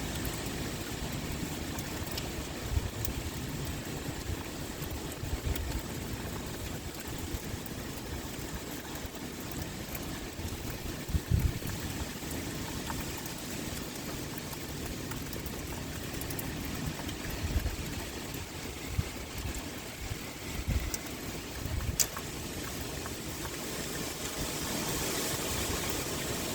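Steady rain pouring, with wind and irregular low rumbling bumps and occasional sharp drip clicks. Toward the end the hiss swells briefly in a louder gust.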